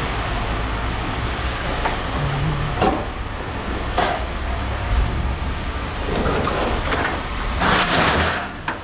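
Heavy machinery running steadily at a scrap yard, with occasional metal knocks and a louder clatter of metal near the end.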